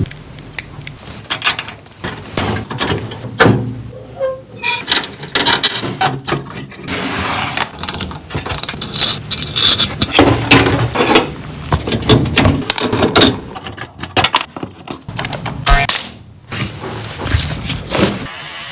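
Hand-tool work on a car: irregular metallic clicks, knocks and ratcheting clatter, with stretches of scraping.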